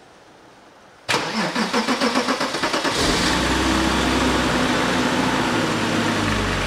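BMW E34 M5 3.8's straight-six starting up: about a second in it turns over and fires unevenly for a couple of seconds, then catches and runs steadily from about three seconds in.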